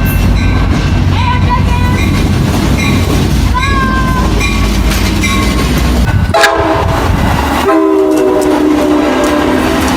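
Train running with a heavy low rumble, then a locomotive air horn sounding a steady chord for the last three to four seconds.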